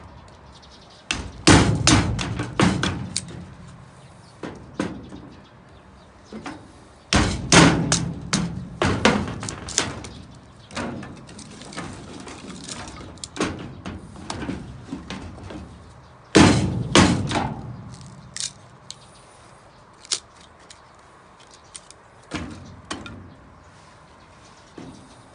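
Three bursts of sharp knocks and clatter, each opening with a heavy hit followed by a quick run of lighter knocks, with scattered single taps in between.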